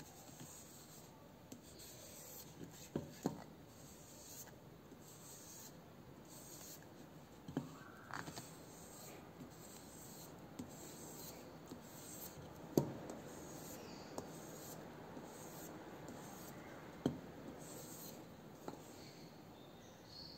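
Faint rubbing or scraping strokes by hand, with a few sharp knocks in between.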